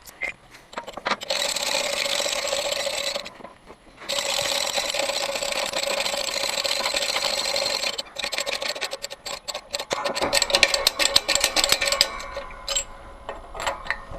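Old wheel bearing being pressed out of a scooter's rear wheel hub: a steady mechanical whir in two long stretches, then several seconds of fast clicking.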